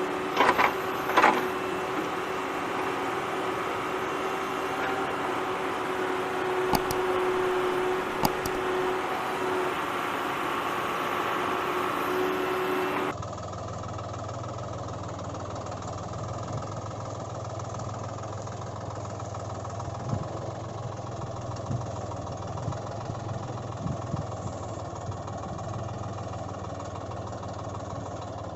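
An engine running steadily, with a few sharp clicks in the first half. About halfway through the sound cuts abruptly to a lower, duller engine hum.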